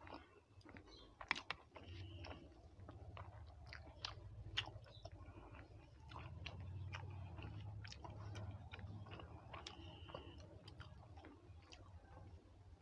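A person chewing food close to the microphone, with scattered light clicks and taps as a steel spoon serves food onto a plate; two sharper clicks stand out about one and four and a half seconds in.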